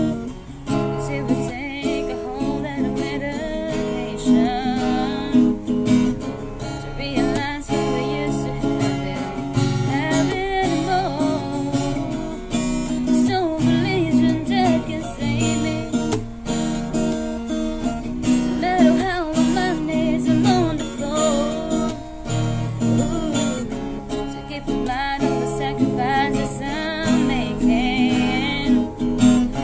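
Acoustic guitar strummed under a voice singing a slow song.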